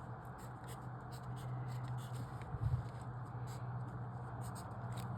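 Writing on paper: short scratchy strokes of marks being made in a puzzle grid, over a steady low hum, with a brief knock near the middle.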